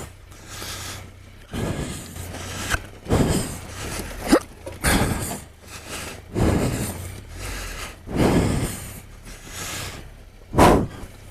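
A person breathing hard while climbing down rocks: one noisy breath roughly every second and a half.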